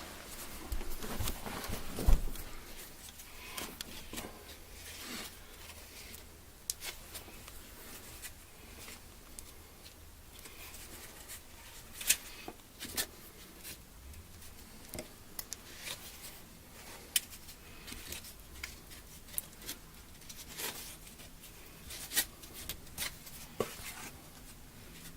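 Scattered light clicks and taps of hands handling tools and material, with one louder knock about two seconds in, over a faint low hum.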